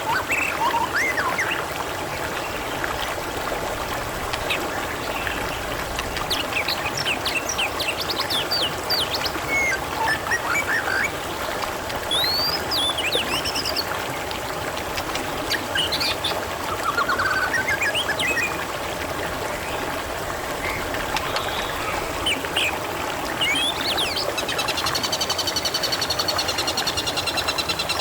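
Steady trickling, gurgling water with birds chirping over it in short, sweeping calls. A fast buzzing trill joins about four seconds before the end.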